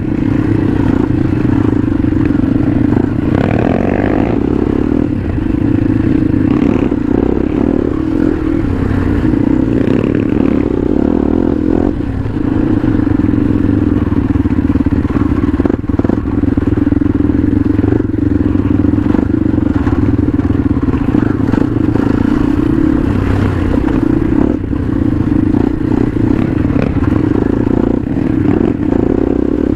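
Motorcycle engine running at a fairly steady pitch as it is ridden over rough ground, with rattles and sharp knocks from the bumps scattered throughout.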